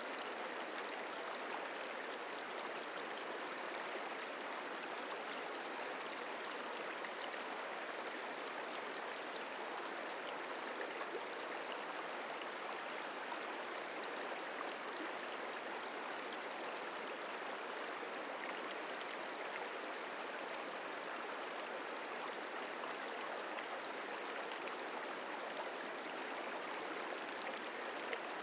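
The Merced River running past, a steady even rush of flowing water.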